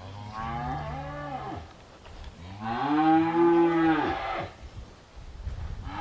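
Weaned calves bellowing: two long calls, the second louder, each rising and falling in pitch. They are calling for their mothers after being separated at weaning.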